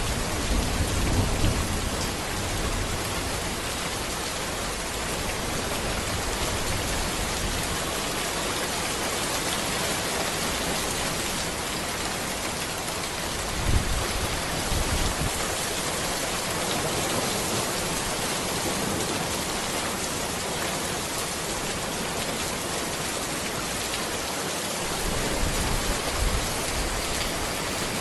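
Steady rain falling on a road and trees, an even hiss of drops. A few brief low rumbles rise out of it near the start, about halfway through and near the end.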